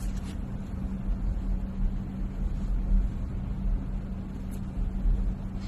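Steady low rumble of a moving vehicle heard from inside, with a constant engine hum and road noise.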